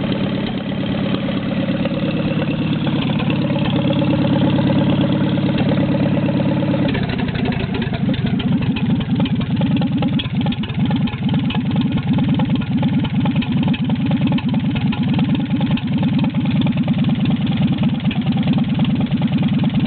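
1948 Farmall M's four-cylinder engine running with no muffler on the exhaust. About seven seconds in, its steady, even note drops to a slower, choppier beat of separate exhaust pulses, as at idle.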